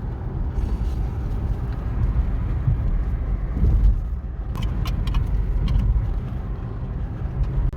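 Steady low rumble of a car in motion, with a few light clicks about halfway through.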